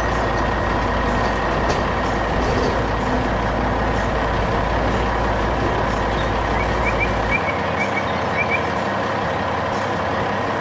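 Heavy construction-truck engine running steadily, a dense mechanical noise with a deep low rumble that drops away about seven seconds in.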